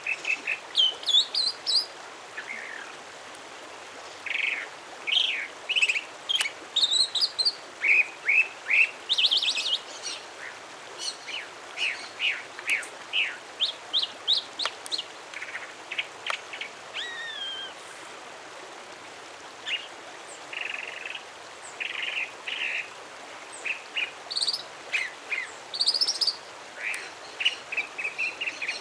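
A songbird singing a long, varied string of short chirps, whistles and quick note series, in phrases with short pauses between them, over a steady background hiss.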